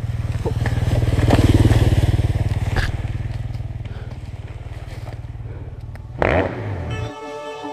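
Dirt bike engine running at a standstill close to the microphone, a steady low putter that swells louder for a moment about a second in, with a short louder burst about six seconds in. The engine sound then cuts off abruptly near the end and electronic music begins.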